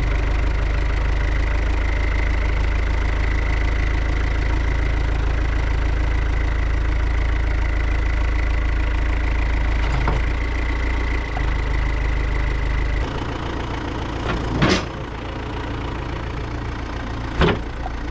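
Diesel engine of a loader machine (backhoe loader or tractor) running steadily while the front loader is worked, with a thin steady high whine over it. About two-thirds of the way through the sound changes abruptly to a quieter engine, and two sharp knocks come near the end.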